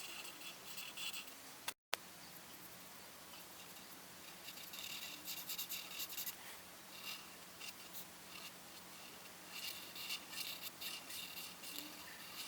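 Coloring strokes on paper: quick, scratchy back-and-forth scribbling in several bursts, with a very short gap about two seconds in.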